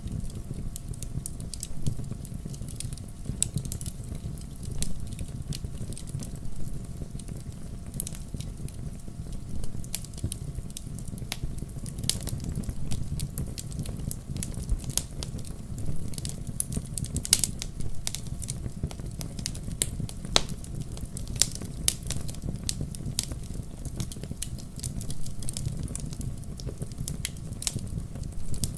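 Wood campfire burning: a steady low rumble of flames with irregular sharp crackles and pops throughout, a few louder snaps standing out.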